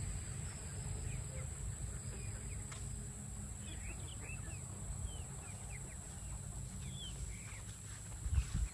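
Young barnyard-mix chickens chirping softly, a scattering of short high calls, over a steady low rumble.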